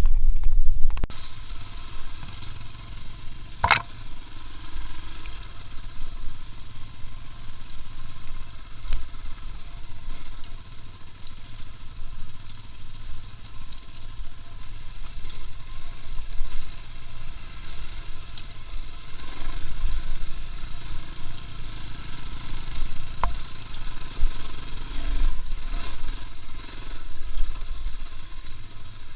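A steady low rumble with an even hiss over it, as of a running motor vehicle, with a loud thump at the very start and a sharp knock about four seconds in.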